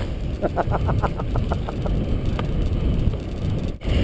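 Wind buffeting the microphone and riding noise during a mountain bike descent, with a quick run of about a dozen ticks, about eight a second, starting about half a second in.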